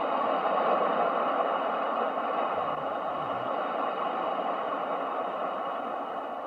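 Steady rushing noise of ocean waves, swelling slightly about a second in and then slowly easing off.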